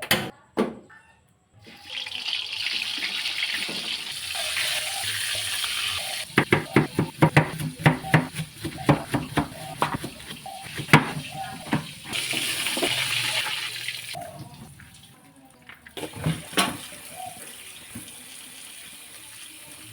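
Water running from a kitchen tap, broken in the middle by a quick run of sharp knocks and clatter, then the tap running again.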